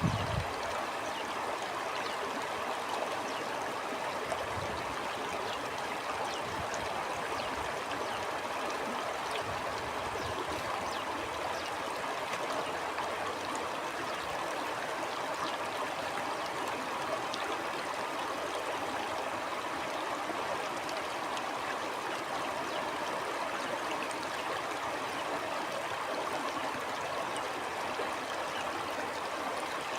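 Stream flowing steadily, a continuous babble and trickle of running water.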